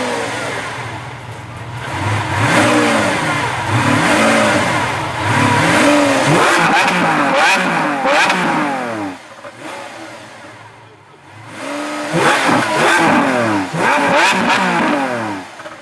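Lamborghini Aventador's V12 engine revved hard in quick repeated blips, each rising and falling in pitch. There are two runs of blips with a quieter lull in between.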